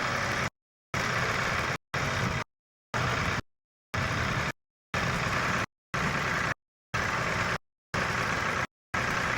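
Tractor engine running, with the audio dropping out to complete silence about once a second, so the engine sound comes in short chopped pieces.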